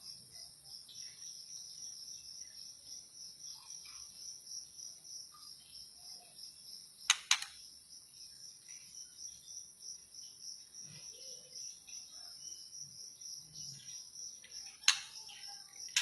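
Steady, high-pitched insect chirring, cricket-like, that pulses rapidly and never stops. Sharp clicks cut through it: two close together about seven seconds in, and another near the end.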